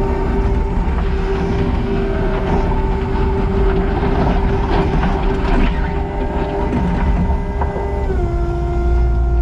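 Kubota SVL90-2 skid steer running under load with a steady high hydraulic whine over the diesel rumble, and the tooth bucket clanking against debris midway through. Near the end the whine steps down in pitch as the load or throttle changes.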